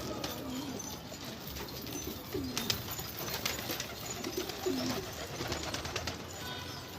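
Domestic pigeons cooing, with low coos repeating every couple of seconds. A few light sharp clicks fall in the middle.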